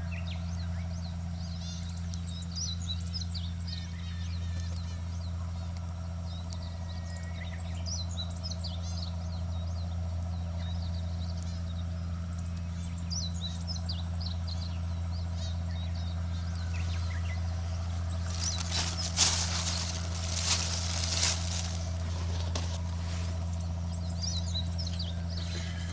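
Small birds chirping in short bursts every few seconds over a steady low hum. A short burst of sharp crackling and clattering, the loudest thing here, comes about two-thirds of the way through.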